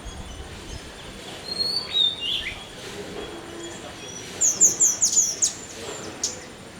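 Small bird chirping: a few thin chirps early, then just past the middle a quick run of about six sharp, high, falling chirps.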